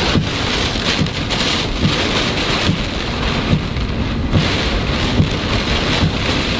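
Heavy rain beating down in a severe thunderstorm, a steady loud hiss with many irregular dull thumps scattered through it.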